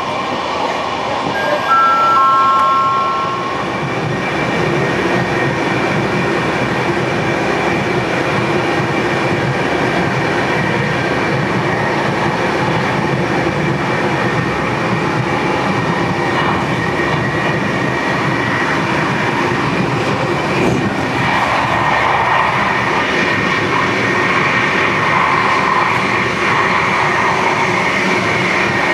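Passenger train running steadily, with a continuous rumble and rail noise. Three short tones stepping down in pitch sound a couple of seconds in.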